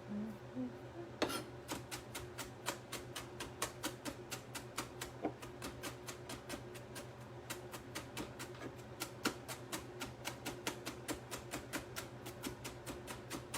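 A kitchen knife mincing on a cutting board: quick, even chops at about four a second, starting about a second in.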